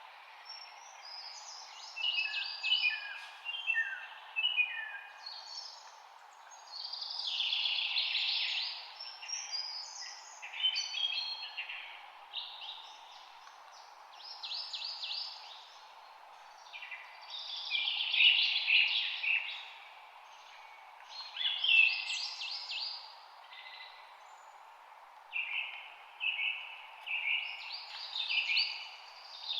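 Songbirds singing in phrases of quick chirps and trills, one to three seconds long with short pauses between, over a steady low hiss of background noise.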